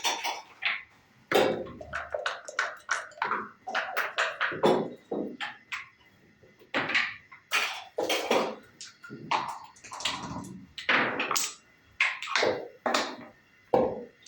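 Backgammon play: dice bouncing on the wooden board and checkers clacking as they are moved, an irregular run of sharp knocks and clicks.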